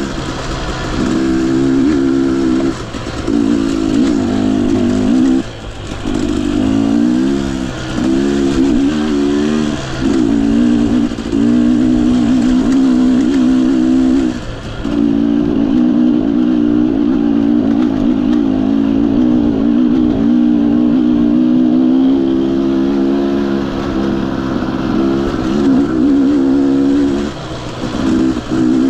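Husqvarna TE 250i two-stroke dirt bike engine running under load, revving up and down with short throttle cuts several times.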